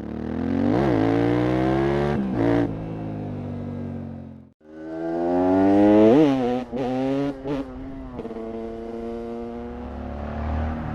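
KTM 690 SMC R supermoto's single-cylinder engine through a LeoVince exhaust, accelerating hard with the revs rising repeatedly and falling briefly at each gear change. It breaks off abruptly to silence for a moment, then climbs again and settles to a steady cruise near the end.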